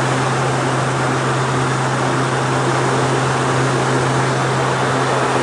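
Cabin noise of a Hawker 800 business jet in flight: a steady rush of air and turbofan engine noise with a constant low hum underneath.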